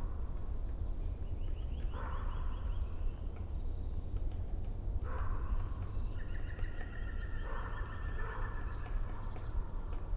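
Birds calling in separate bursts, about two seconds in and again about five seconds in, then a longer call from about six to nine seconds, over a steady low rumble.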